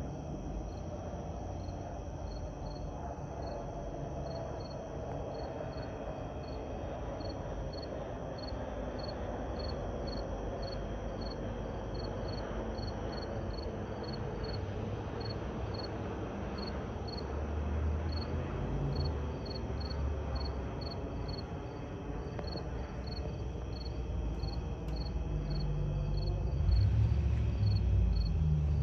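Crickets chirping steadily, about one and a half high chirps a second, over the broad rushing sound of a jet aircraft passing, which grows louder toward the end.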